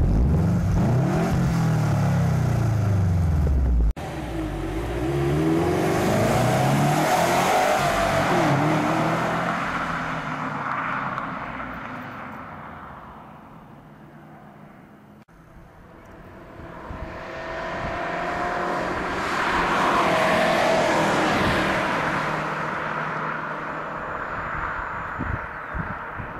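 Subaru WRX STI's turbocharged flat-four engine through its exhaust, revved up and down several times at a standstill. After a cut, the car drives past twice, its engine getting louder as it approaches and fading away as it goes.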